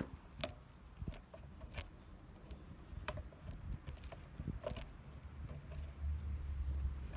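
Irregular sharp clicks and light knocks, a few each second, over a low rumble.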